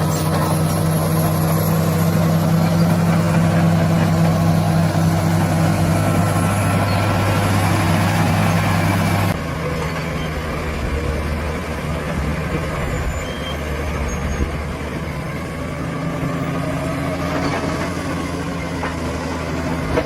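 Heavy diesel engine of earthmoving machinery running steadily under load. About nine seconds in the engine note changes abruptly to a lower, less even running sound.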